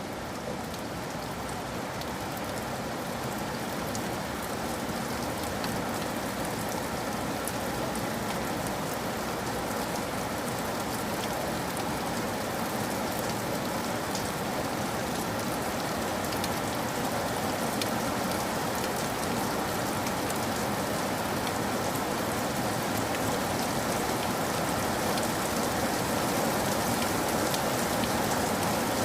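Steady rain falling and pattering on a surface, with many individual drop ticks, slowly growing louder.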